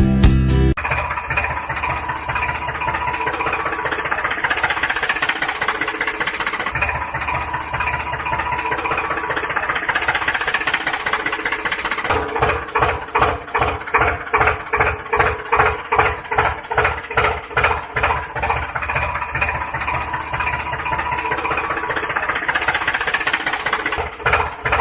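Mini tractor's motor running steadily; about halfway through it takes on a rhythmic chugging pulse, about two beats a second, for roughly ten seconds, then evens out again.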